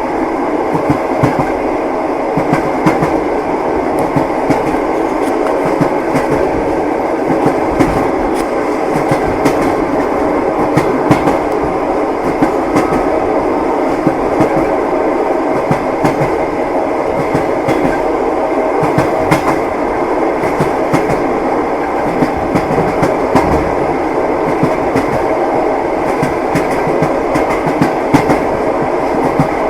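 Train wheels clattering over rail joints as a railway carriage runs along: a steady rumble with frequent small knocks.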